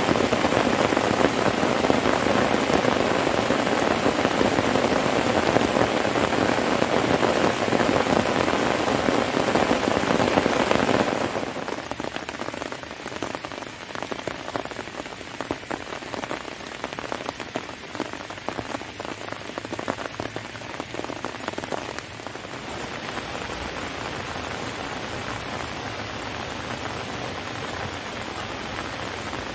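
Heavy rain falling steadily, dropping about eleven seconds in to a lighter rain with distinct individual drops pattering, then a softer, even hiss of rain from about two-thirds of the way through.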